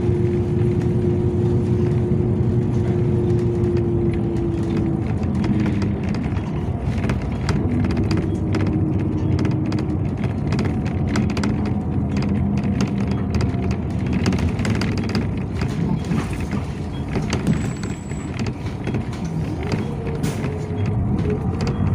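Yutong ZK6118HGA city bus heard from inside the cabin while driving: a steady engine and road rumble with a drivetrain whine that shifts in pitch, and frequent rattles and clicks from the cabin.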